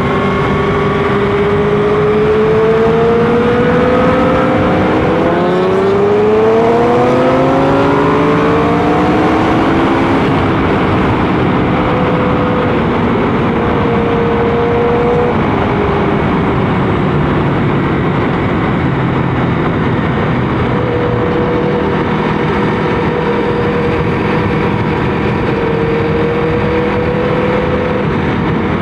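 Motorcycle engine running under way over a steady rush of noise. Its pitch climbs as the bike accelerates between about four and nine seconds in, then holds fairly steady.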